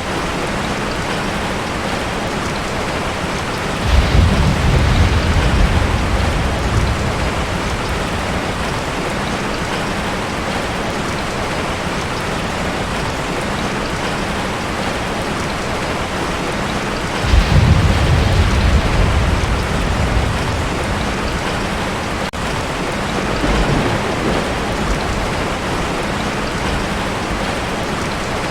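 Heavy rain falling steadily on a tin roof, with thunder: a sudden low rumble about four seconds in, a second one around seventeen seconds, each dying away over a couple of seconds, and a fainter rumble later.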